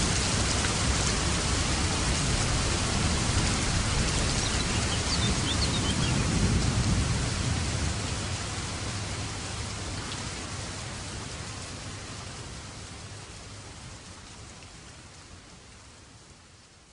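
Steady rain with a low rumble of thunder swelling about six seconds in, then the whole sound fading out gradually toward the end.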